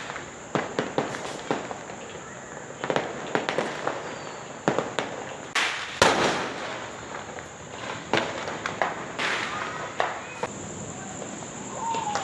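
Fireworks and firecrackers going off all around: a scattered, irregular series of bangs and pops, near and far, with the loudest bang about halfway through and a crackling burst a little later.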